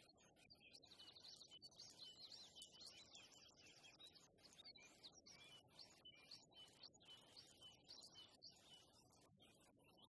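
Faint birdsong: small birds chirping, many short high notes repeated throughout, over a low background hiss.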